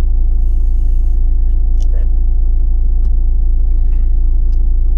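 Vehicle engine idling steadily as a constant low hum, heard from inside the cab, with a short faint rustle about half a second in and a few small clicks.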